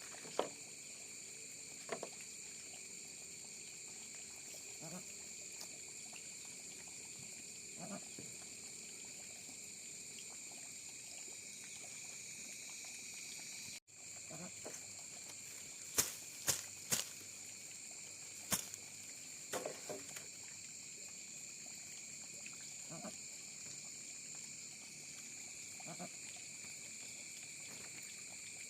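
Steady high-pitched insect calling, with scattered sharp knocks and taps, a cluster of them a little past halfway, and a brief dropout about 14 seconds in.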